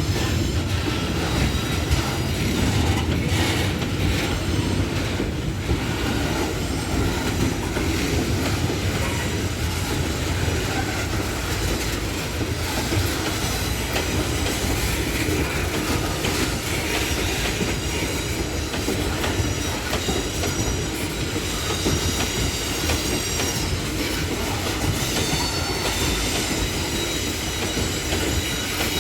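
Heavily loaded freight train rolling steadily past, its wagons' wheels clattering over the rails with a thin, high wheel squeal, most noticeable near the end.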